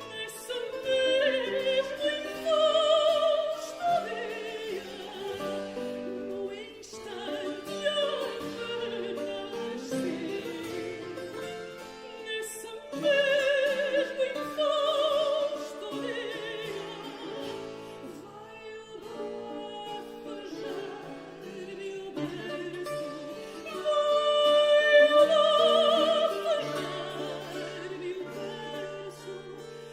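Classical singer with wide vibrato performing a late-18th-century Portuguese modinha over instrumental accompaniment. The voice swells louder on held phrases near the start, around the middle and a few seconds from the end.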